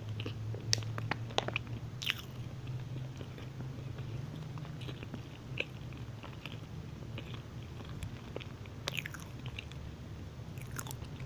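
Close-miked chewing of a soft chocolate chip muffin: wet mouth clicks and smacks, bunched in a few spells of chewing.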